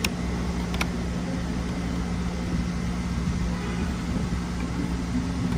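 A steady low mechanical hum runs throughout. Two short sharp clicks come right at the start and again just under a second in, like small parts being handled on the bench.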